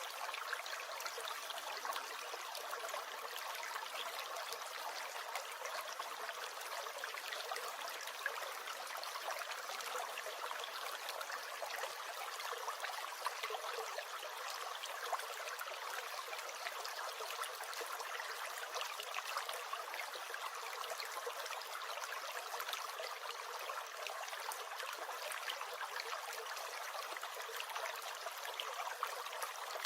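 A brook gurgling steadily: an even babble of fine trickles and small splashes, with little deep rumble.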